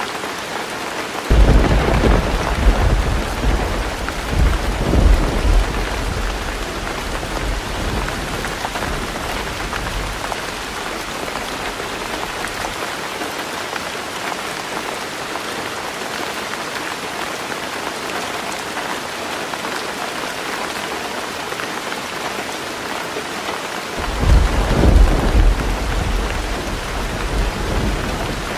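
Heavy rain falling steadily on a roof, with two rolls of thunder. The first starts about a second in and rumbles away over several seconds; the second comes near the end.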